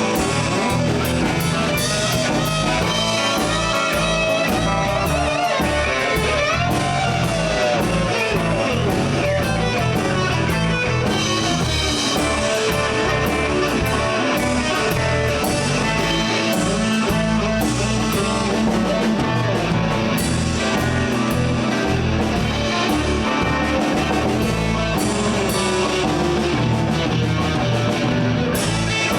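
Live blues band playing an instrumental break: a lead guitar solo with string bends over a shuffling drum kit and bass.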